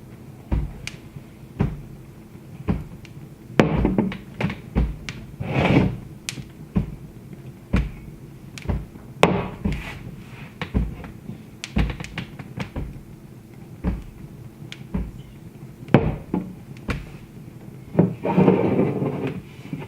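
Wood fire crackling in a fireplace, with irregular sharp pops and snaps and a few longer, noisier flare-ups, the longest near the end.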